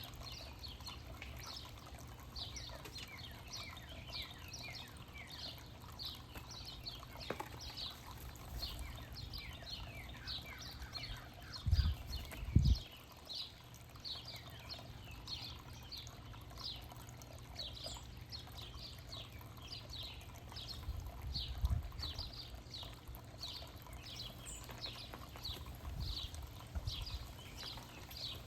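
Small backyard songbirds chirping over and over in short, high, down-slurred notes, two or three a second without a break. Low thumps come twice near the middle and again near the end.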